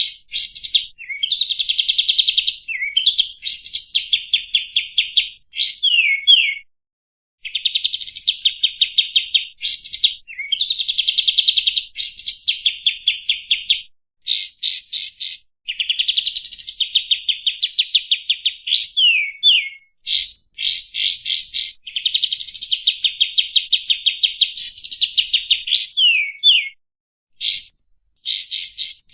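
Kapas tembak (olive-winged bulbul) singing: long phrases of fast, rattling repeated notes mixed with sharp up-and-down whistled sweeps, broken by a few short pauses.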